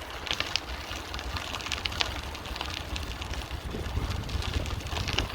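Wind buffeting the microphone during a bicycle ride: a steady low rumble, with many irregular light clicks and rattles over it.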